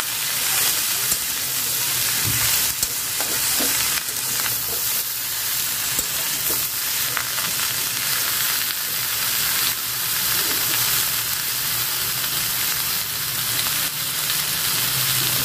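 Potato and brinjal pieces sizzling steadily as they fry in oil in a kadai, with a metal spatula now and then scraping and turning them in the pan.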